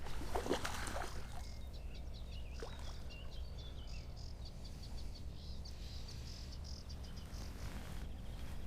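Wild birds singing: a warbling song in the first few seconds, then a fast run of short, high chirps in the middle, over a steady low rumble. A few rustles and clicks about the first second.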